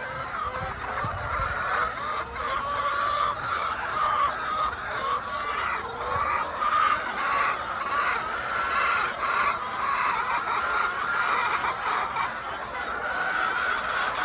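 A flock of laying hens clucking and calling continuously, many voices overlapping.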